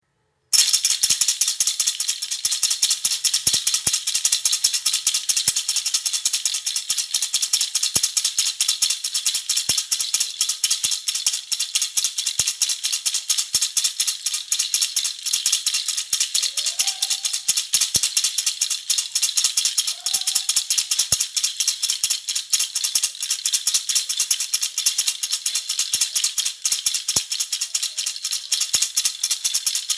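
Baby rattle (jhunjhuna) shaken continuously, a dense, fast rattling of beads that starts about half a second in.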